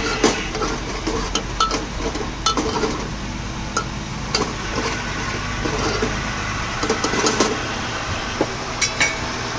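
Metal spoon stirring and scraping in a metal cooking pot: many short clinks and scrapes over a steady low hum.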